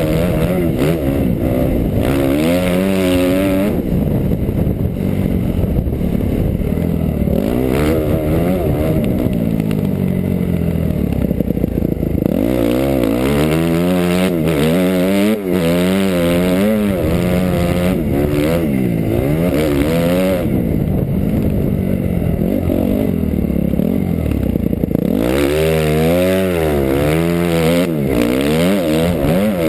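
2008 Suzuki RM-Z250 four-stroke single-cylinder motocross engine under hard riding, its pitch climbing and dropping again and again with each burst of throttle and each gear change.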